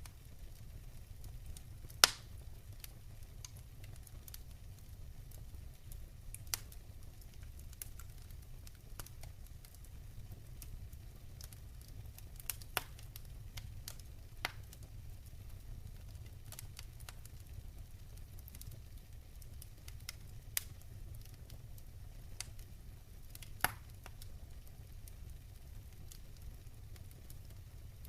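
Wood fire burning in a fireplace: irregular sharp crackles and pops over a low steady rumble. The loudest pops come about two seconds in and again near the end.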